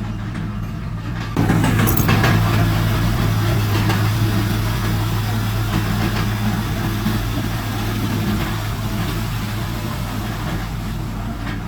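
Heavy diesel earthmoving machinery running with a steady engine drone. About a second in it suddenly gets louder and rougher, then eases off slowly.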